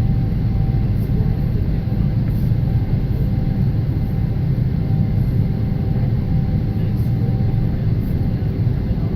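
Boeing 777 airliner's engines and airframe making a loud, steady low rumble, with a faint steady hum above it.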